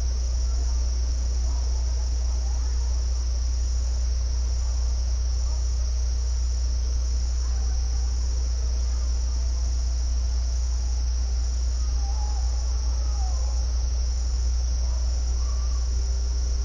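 Steady chorus of crickets trilling at a high pitch over a constant low rumble, with faint wavering calls now and then.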